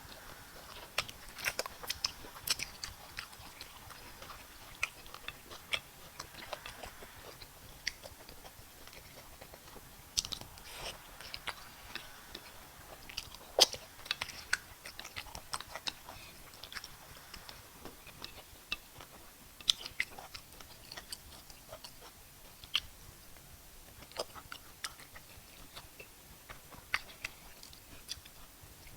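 Close-up eating sounds from a mukbang of fufu and bitter leaf soup with meat and cow skin: chewing, with many sharp, irregular mouth clicks and smacks.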